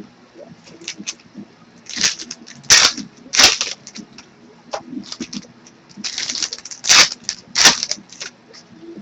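Baseball card packs and cards being handled: a string of short, irregular papery rustles and flicks as packs are opened and cards are sorted.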